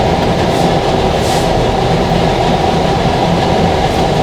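Loud, steady rumbling noise with no rhythm and no breaks, heaviest in the low range, running unchanged under the whole scene.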